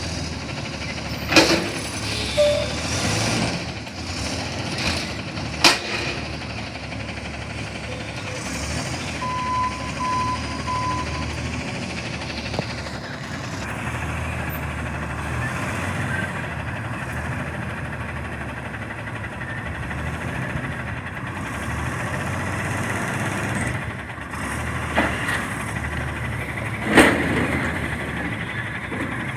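CNG front-loader garbage truck running steadily, with a few sharp loud bangs and three short beeps about ten seconds in.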